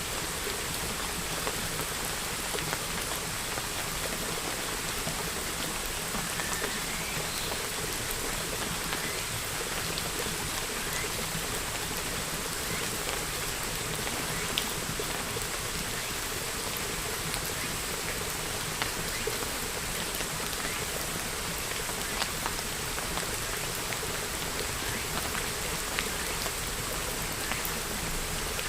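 Steady rain falling, an even hiss with scattered individual drops landing.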